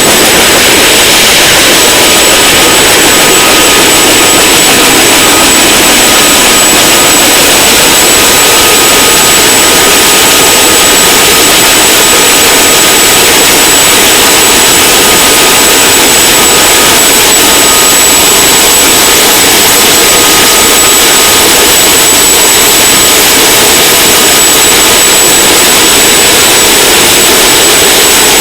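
CH-47 Chinook helicopter's twin turbine engines and rotors running, a loud, steady roar with a thin, high, constant whine.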